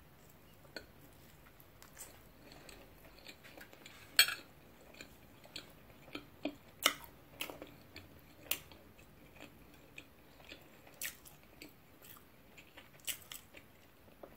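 A person biting and chewing food close to the microphone: scattered short wet clicks and smacks of the mouth, with a louder bite about four seconds in and another near seven seconds.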